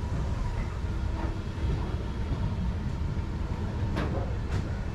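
Passenger train running, a steady low rumble of the coach on the rails, with two sharp clicks about four seconds in.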